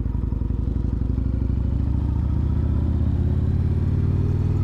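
Kawasaki Vulcan 1600 Nomad's V-twin engine running at low speed through loose gravel, its pitch rising slightly over the last couple of seconds.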